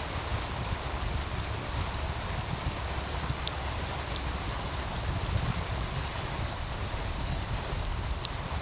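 Steady rushing of a meltwater stream, with a low rumble beneath it and a wood fire crackling in scattered sharp pops, the loudest about three and a half seconds in.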